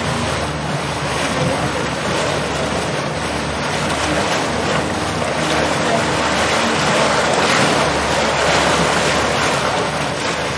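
Water rushing and splashing along the hull of a houseboat under way, with the steady low hum of its motor beneath and wind buffeting the microphone; the water noise swells a little in the second half.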